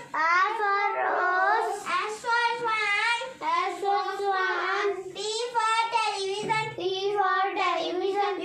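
A young girl singing or chanting in a high voice, with short breaks between phrases.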